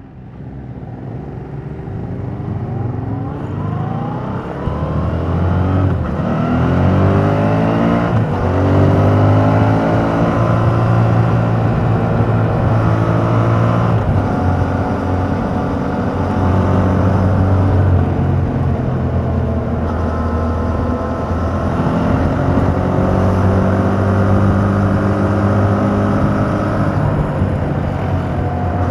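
A 2021 Yamaha MT-07's 689 cc parallel-twin engine on its stock exhaust accelerates hard. Its pitch rises in sweeps through the gears over the first eight seconds or so, then settles into a steady, loud run with small rises and dips.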